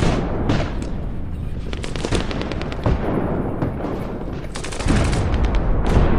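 Airsoft electric guns firing in several rapid bursts of clicking shots, the last burst near the end louder, over a steady low rumble.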